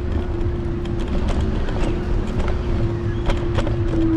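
Apollo Explore electric scooter riding along, its motor giving a steady whine over low road rumble and wind on the handlebar-mounted microphone, with scattered light clicks and rattles.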